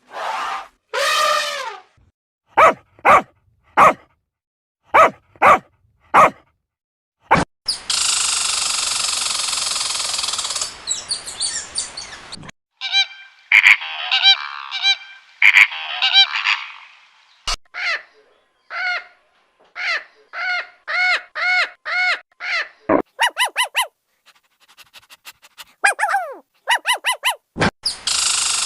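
A sequence of bird calls from several clips cut together: short separate calls at first, then a long loud noisy call, then runs of quick repeated calls with sudden cuts between the clips.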